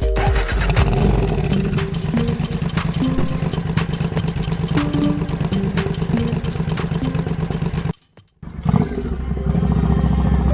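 Motorcycle engine running steadily while riding, with a fast even firing pulse and some clatter. The sound drops out abruptly for about half a second near the end, then comes back.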